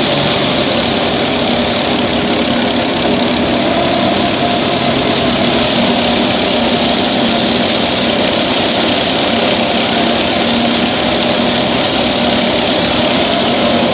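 Massey Ferguson 240 tractor's three-cylinder diesel engine running steadily under heavy load, driving a thresher. The engine's hum runs under a constant rushing machinery noise.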